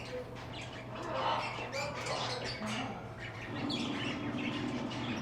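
Many caged pet parrots and parakeets chirping and squawking over one another in a continuous jumble of short calls, with a steady low hum underneath.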